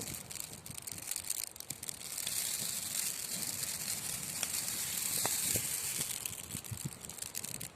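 Wood logs burning in a fireplace: a steady hiss with frequent sharp crackles and pops, the hiss growing stronger through the middle.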